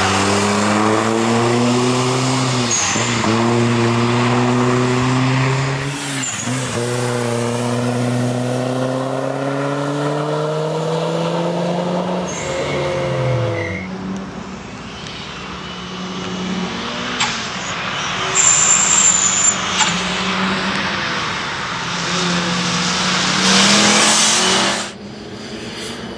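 Subaru Justy AWD hatchback's engine revving hard as it is driven around a wet track, its pitch climbing and dropping with gear changes and corners. A short high tyre squeal comes about two-thirds of the way in.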